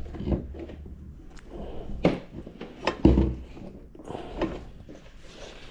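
Several sharp knocks and clicks, a second or so apart, from hands handling the metal parts of a mini benchtop lathe.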